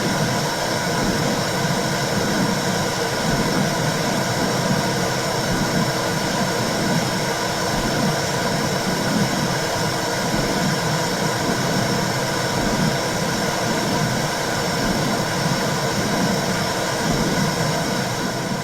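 Womb sound for calming babies: a steady whooshing hiss with a rhythmic low pulsing whoosh running under it.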